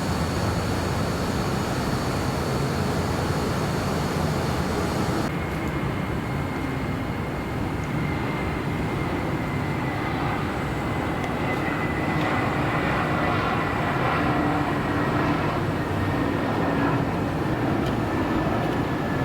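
Jet airliner engines: a steady rumble, with a high whine that slowly falls in pitch over the second half.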